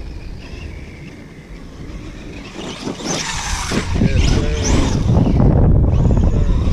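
Kyosho USA-1 electric RC monster truck driving over dirt and rock. It runs quietly at first, then its motor whines up and down in pitch as it accelerates, getting much louder about three seconds in.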